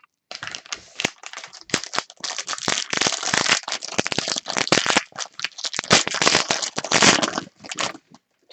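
Foil wrapper of a trading-card pack being torn open and crinkled, with the cards handled. A dense run of crackling that stops about eight seconds in.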